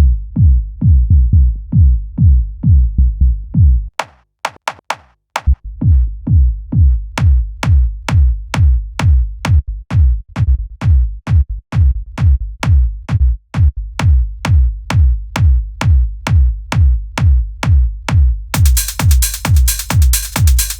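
Electronic dance music played from loops on the Launchpad pad app, with a steady drum-machine kick beat. The kick drops out about four seconds in, leaving only sharp clicking hits. It comes back a second and a half later, and a loud hissing noise layer joins near the end.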